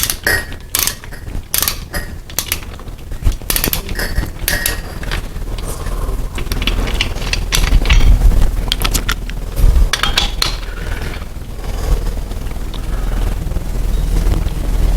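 Metal clicks and clinks of hand tools working the main bearing cap bolts on a 350 Chevy engine block as they are snugged down. The clicks come thickest in the first few seconds, and a low rumble runs underneath from about six seconds in.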